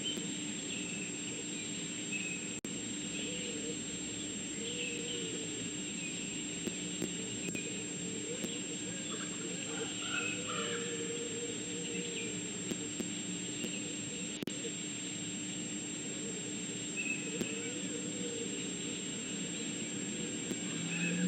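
Outdoor ambience of wild birds chirping and calling on and off, with short high chirps and lower arching calls repeating every second or two, over a steady background hum and hiss.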